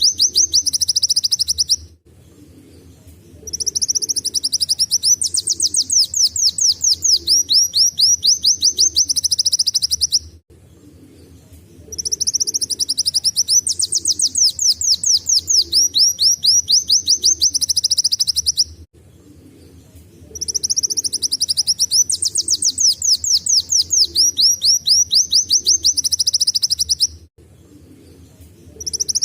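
Kolibri wulung sunbird singing canary-like song: very rapid high trills of repeated quick downward-sweeping notes. It sings in bouts of about seven seconds with short pauses between, ending one bout about two seconds in, singing three full bouts, and starting another at the very end.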